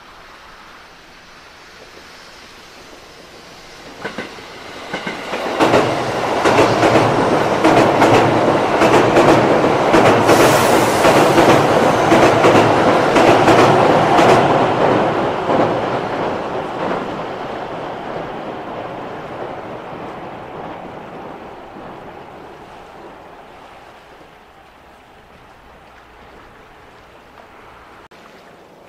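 An electric passenger train crossing a steel railway bridge. Its rumble and the clatter of its wheels over the rail joints build up about five seconds in, stay loud for around ten seconds, then fade away slowly as it passes.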